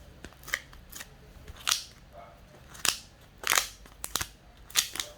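Homemade glitter slime, still slightly sticky, being kneaded and pressed by hand, giving sharp wet clicks and pops at irregular intervals, about one a second.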